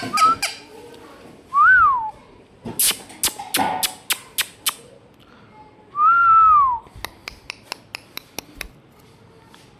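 Indian ringneck parrot whistling: two clear whistles that rise and fall, one about two seconds in and a longer one about six seconds in. In between and afterwards come runs of sharp clicks.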